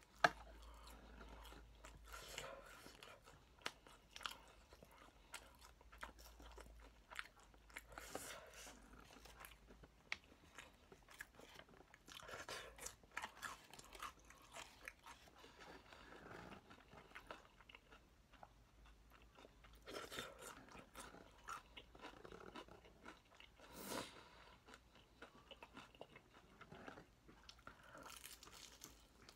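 Faint, close chewing and biting of Kyochon Honey Combo fried chicken, with irregular crisp crunches of the fried coating as each bite is taken and chewed.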